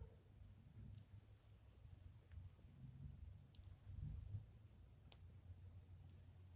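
Faint, scattered pops of a wood fire crackling, a dozen or so small sharp clicks at irregular intervals, over a low wind rumble on the microphone.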